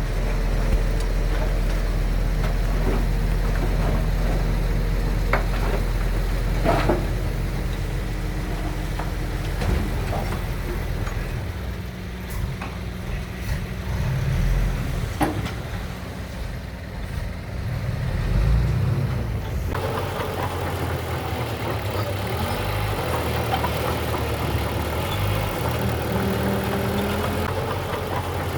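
Diesel engines of heavy earthmoving machinery running, with a few sharp knocks, the clearest about seven and fifteen seconds in. The deep engine note changes partway through.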